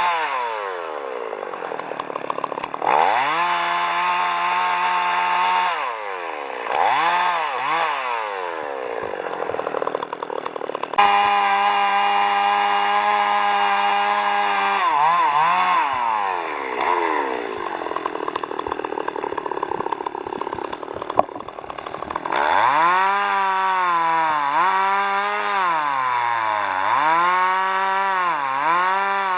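Chainsaw running and cutting wood. Its engine pitch drops and climbs again several times as the throttle is eased off and opened, holds steady at full speed for a few seconds in the middle, then wavers up and down near the end as the chain bites into the wood.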